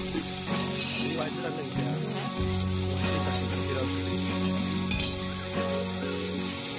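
Jackfruit pieces sizzling in a large aluminium pot while a perforated steel ladle stirs them and scrapes the pot, with background music underneath.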